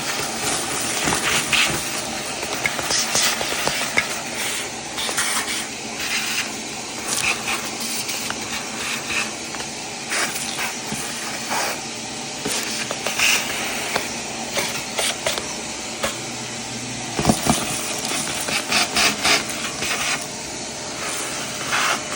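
Vacuum cleaner running steadily with a hissing rush of air as it sucks dirt and debris out of a long-neglected engine bay, with short clicks and rattles of debris going up the hose, busiest a little past halfway through.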